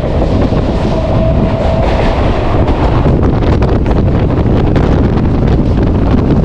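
Mumbai suburban electric local train running at speed between stations: a steady rumble of wheels on the track, with wind buffeting the microphone and a brief faint whine about a second in.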